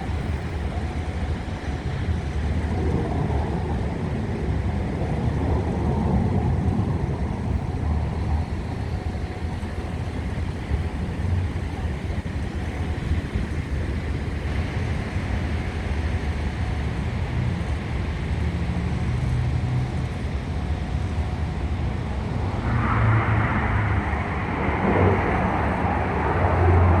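Aircraft engine noise: a steady distant rumble with wind on the microphone, swelling louder about 23 seconds in as the aircraft comes nearer.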